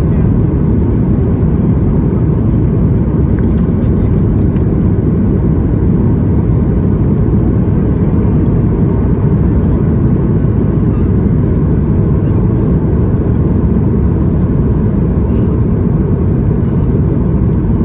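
Steady, loud cabin roar of a Boeing 737 MAX 8 airliner, its CFM LEAP-1B engines and airflow heard inside the passenger cabin. It is a deep, even rumble without a break.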